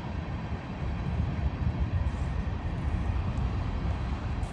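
Norfolk Southern mixed manifest freight train's cars rolling past, a steady low rumble.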